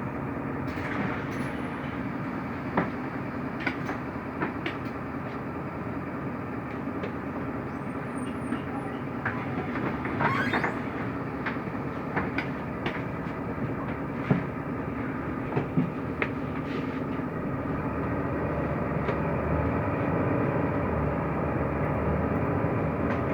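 Interior of a Mercedes-Benz Türk O345 Conecto LF city bus under way: steady engine and road rumble with scattered clicks and rattles from the bodywork and fittings, getting a little louder toward the end.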